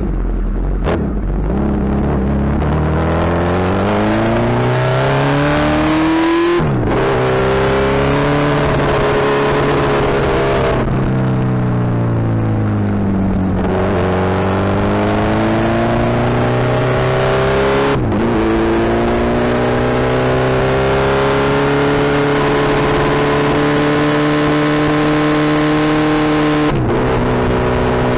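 Suzuki Hayabusa's inline-four engine pulling hard through the gears. Its pitch climbs, then drops sharply at each of three upshifts. In the middle it winds down as the throttle eases off, then builds again.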